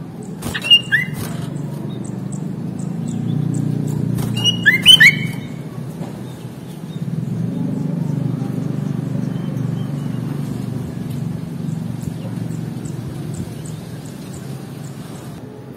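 Sooty-headed bulbul (kutilang) calling: two loud bursts of short, sliding whistled notes, one about half a second in and one around five seconds in. A steady low rumble runs underneath, with faint high ticking notes.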